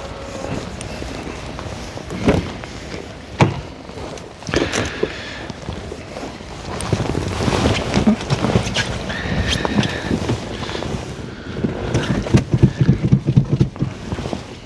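Diesel engine cold-starting in frost, knocking hard. Separate sharp knocks come first, then from about halfway it runs rough with loud, uneven knocking, heaviest near the end: typical cold-start diesel knock.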